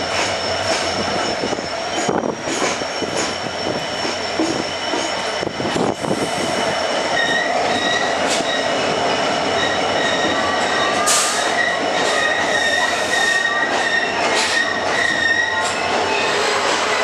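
ICF passenger coaches running along the rails, with wheel-on-rail rumble and scattered clicks from rail joints. Thin, high wheel squeal sets in about 7 s in and holds steady to the end.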